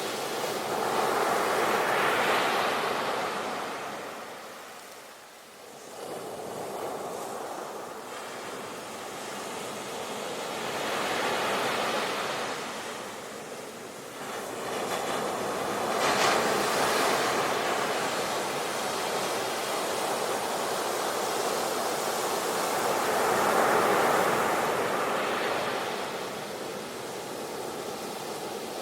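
Ocean surf: waves rushing in and washing back in slow swells, about four surges, with a brief lull about five seconds in.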